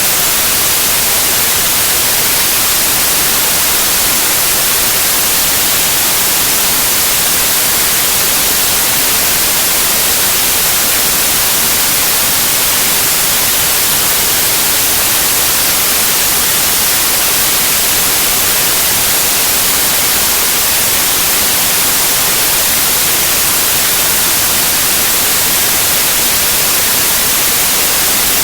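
Steady, unchanging white noise: an even hiss, loudest in the high end.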